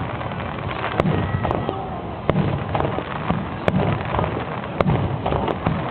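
Aerial fireworks going off in a string of sharp bangs, about seven in six seconds, over a steady murmur of crowd voices.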